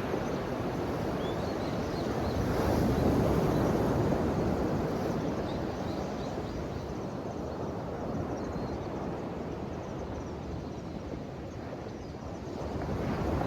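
Ocean waves breaking and washing on the shore: a wave swells up about two seconds in, its wash slowly fades, and the next wave builds near the end.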